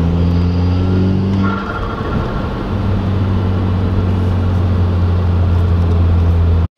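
Audi A3's turbocharged 2.0-litre four-cylinder engine running as the car is driven, heard from inside the cabin. The engine note rises a little, dips briefly about one and a half seconds in, then holds steady before cutting off suddenly near the end.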